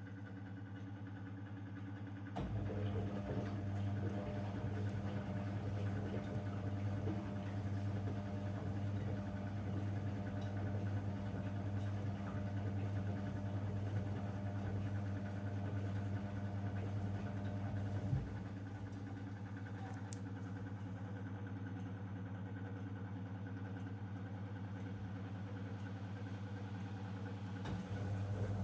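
Zanussi DL22 washing machine running a 90 °C boil wash, a steady hum with a faint clatter over it. The hum grows louder about two seconds in, drops back with a sharp click about eighteen seconds in, and swells again just before the end.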